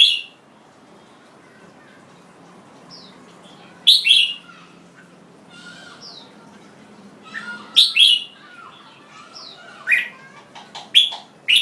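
Red-whiskered bulbul (jambul) singing: short loud phrases of song about every four seconds, coming closer together near the end, with softer falling whistled notes in between.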